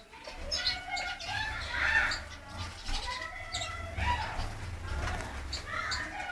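Mixed chirping and warbling song of many small cage birds, canaries and finches, in an aviary, with short calls overlapping throughout.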